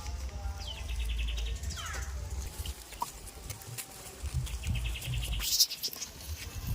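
Small birds chirping in rapid high trills, one run about a second in and another near the end, with a short falling call in between. A low, uneven rumble runs underneath.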